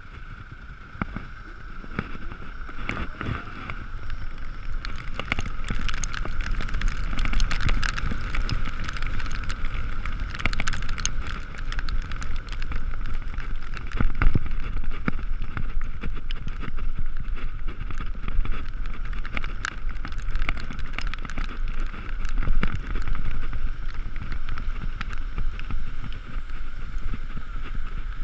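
Ekoway ML5000 electric scooter being ridden on a wet road in the rain: wind rushing over the microphone and tyre and road noise, building over the first several seconds as speed picks up, then holding steady. A steady high whine runs underneath, with scattered small clicks.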